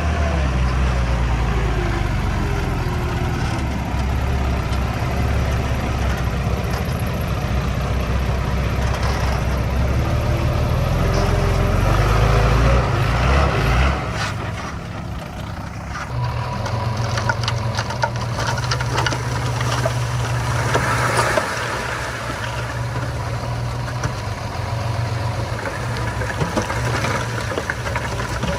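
Diesel engines of heavy earthmoving machinery, a small bulldozer and a dump truck, running under work. About halfway through the deep rumble drops and the engine note changes, with a few sharp clanks.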